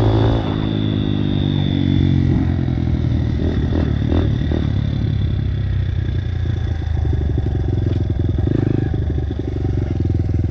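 Dirt bike engine running under way. The pitch and level drop about half a second in as the throttle eases, then the engine holds a steady note.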